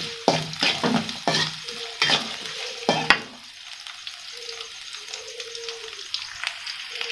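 Sliced shallots and garlic frying in oil in a wok, stirred with a metal spatula: sizzling with a series of scrapes and clinks of the spatula against the pan for about three seconds. After that, a steadier, quieter sizzle with the spatula at rest.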